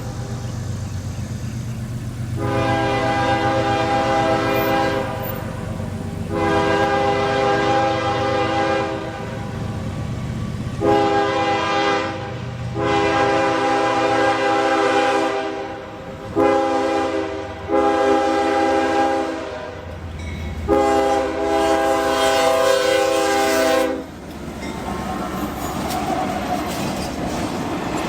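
CSX diesel freight locomotive's multi-note air horn sounding seven blasts, long and short, over the low rumble of the locomotive. After the last blast, about three-quarters of the way in, the rolling noise of the passing train's cars takes over.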